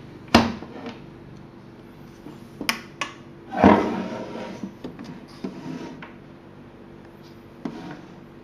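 A series of sharp knocks and clatters from hard objects being handled: two loud knocks, about half a second and three and a half seconds in, the second trailing off in a rattle, with lighter clicks in between and a faint steady hum underneath.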